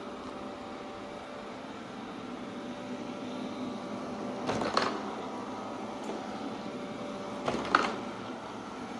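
Shark ION Robot RV750 robot vacuum running with a steady motor hum and whine, broken twice by a short clattering knock, about four and a half seconds in and again, louder, about seven and a half seconds in.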